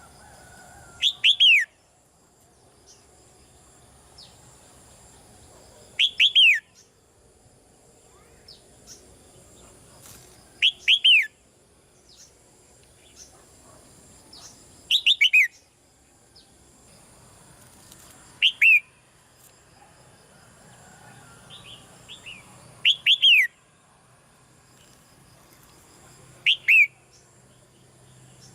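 Caged red-whiskered bulbuls calling: loud clusters of two or three quick falling notes, repeated every four to five seconds, with fainter short notes in between.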